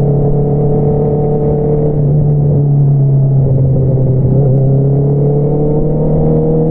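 Exhaust note of a 2022 Honda CBR650R's inline-four engine through an Akrapovič single-outlet exhaust, running steadily under way. The pitch eases slightly about two seconds in, then climbs slowly near the end.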